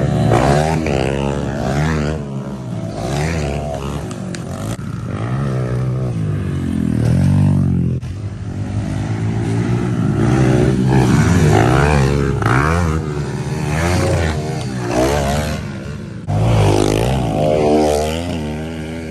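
Pit bike engines revving up and down as the bikes ride, their pitch rising and falling over and over. There is a sudden jump in loudness about three-quarters of the way through.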